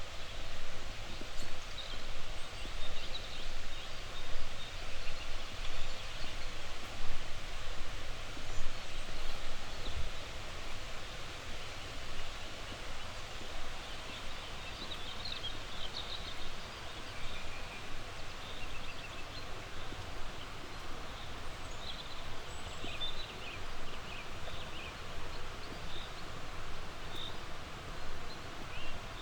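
Small songbirds chirping and calling on and off over a steady rushing outdoor background.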